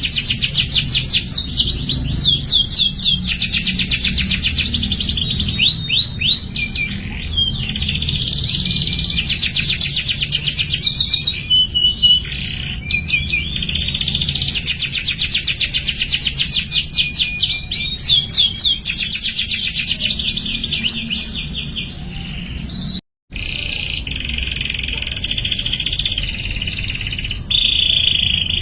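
Domestic canary singing: long, rapid trills (rolls) broken up by rising and falling whistled notes, phrase after phrase with short pauses between them. The sound cuts out for an instant about three-quarters of the way through.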